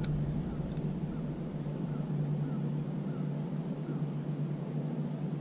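Boat motor running steadily at trolling speed, an even low hum.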